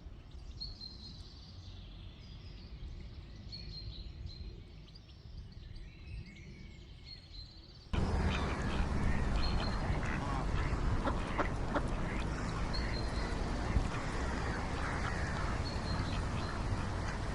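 Small birds chirping high over a quiet background, then about eight seconds in an abrupt cut to a louder scene of ducks quacking at the water amid general background noise.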